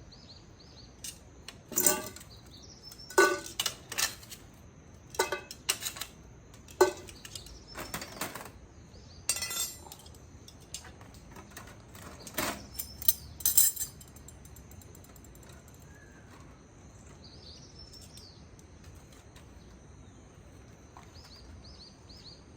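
A series of about ten sharp clinks and knocks, some ringing briefly, at irregular intervals over the first fourteen seconds, then quieter. Birds chirp faintly in the background.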